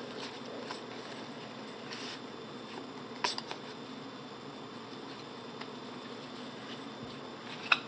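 Trading cards being handled between calls: a soft rustle of card stock and two sharp clicks as cards are flipped and set down, over a steady low room hiss.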